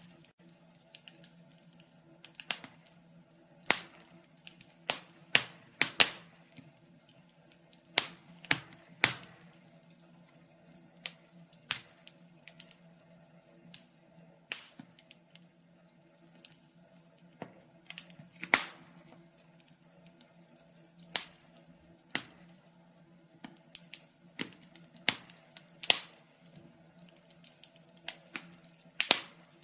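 Wood fire in a fireplace crackling: irregular sharp snaps and pops, roughly one or two a second and of varying strength, over a faint steady hum.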